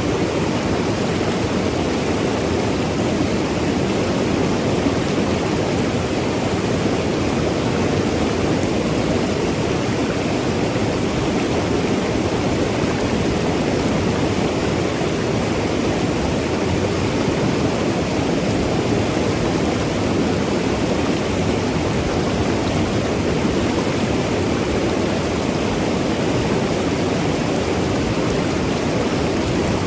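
Mountain river rushing and tumbling over rocks: a steady, unbroken rush of water.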